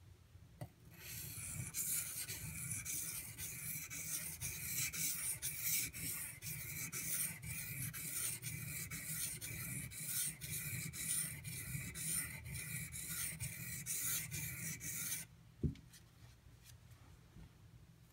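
AUS-8A steel knife blade stroked back and forth on a Shapton Pro waterstone, an even rasping grind of about two strokes a second that stops abruptly, followed by a single knock. The edge is being reprofiled on the stone because it was uneven.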